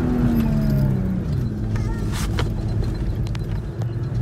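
A 4x4's engine heard from inside the cabin while driving over sand dunes. Its pitch falls over the first second or so as the revs drop, then it runs steadily.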